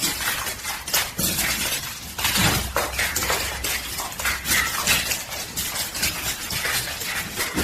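Continuous clattering and clinking of hard objects, many sharp irregular knocks a second.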